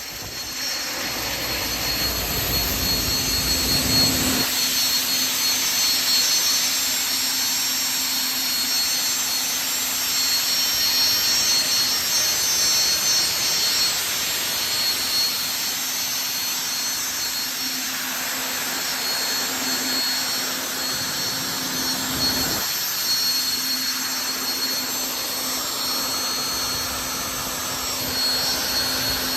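Lycoming T55-L-7C turboshaft engine, freshly overhauled, running steadily with a loud jet rush and a constant high-pitched turbine whine. A deeper rumble swells briefly near the start and again about three-quarters of the way through.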